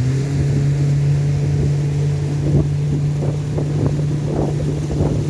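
A tour boat's motor running steadily, a low hum that picks up slightly in pitch right at the start. Wind buffets the microphone.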